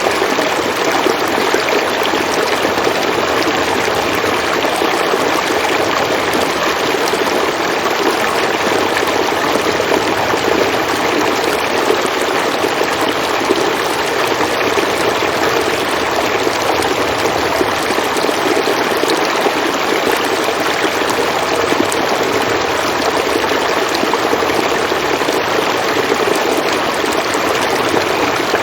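River water flowing in a steady, even rush, with no breaks or separate splashes.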